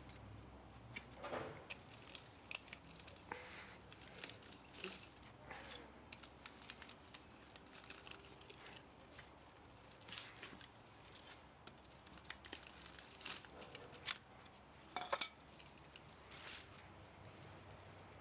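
Hand tools working on the metal parts of a scrap electric motor during salvage: irregular clicks and short scrapes, with a few sharper clicks near the end.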